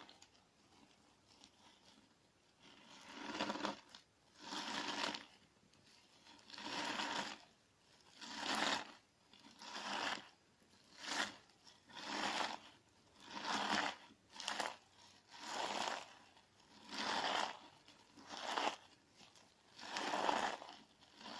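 Clear slime mixed with crunchy sand being squeezed and kneaded, each squeeze giving a gritty crunching sound. About a dozen squeezes come at a steady pace of roughly one every second and a half, starting a couple of seconds in.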